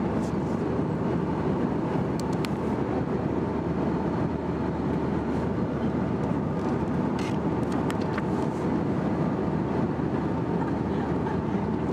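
Steady cabin noise of an Airbus A321 in flight, a constant low rumble of engines and airflow, with a few faint clicks over it.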